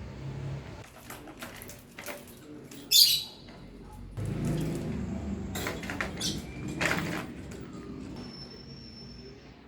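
Kittens playing: irregular light scuffling and tapping, with a short, loud, high-pitched squeak about three seconds in and a busier, louder stretch of rustling and knocking in the middle.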